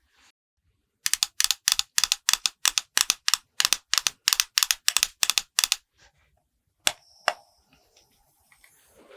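Quick, even tapping during makeup application, about four or five short taps a second for nearly five seconds, then two single sharp clicks.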